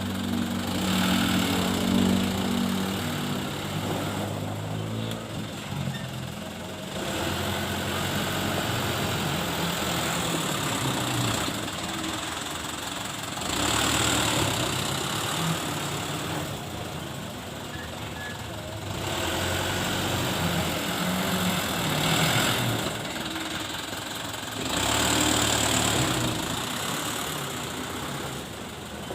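Dump truck engine running, revving up and dropping back several times.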